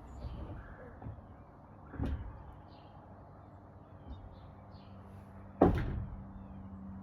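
A door knocked about two seconds in, then banging shut loudly a little after five and a half seconds, shutting the cat inside.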